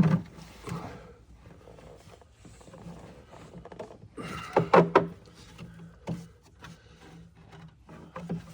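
Scattered clicks and knocks of hands and tools working the plastic PCV hose connections in the engine bay, with a louder burst of noise about four and a half seconds in.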